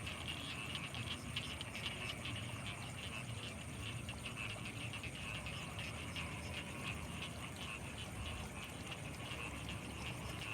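A dense night chorus of many frogs calling at once, a steady mass of short rapid calls, with a low steady hum underneath.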